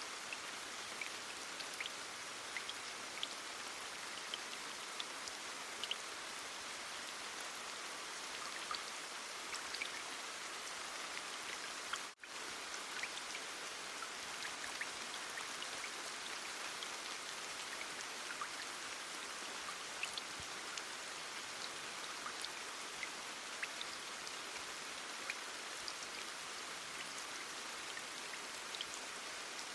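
Heavy rain falling as a steady hiss, with many small drop ticks scattered through it. About twelve seconds in it cuts out for a split second, then carries on unchanged.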